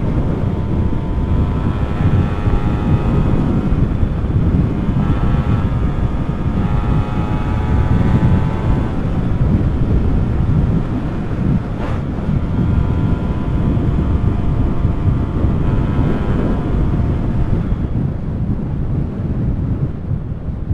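Two-stroke motorcycle engine under way, its pitch climbing three times as it accelerates, under heavy wind rumble on the microphone.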